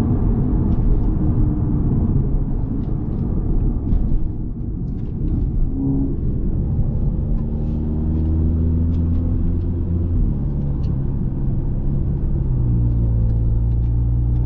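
Tuned Volkswagen Golf R's turbocharged four-cylinder engine running as the car drives, over a heavy road rumble. The engine note dips about four seconds in and changes pitch a couple more times later on.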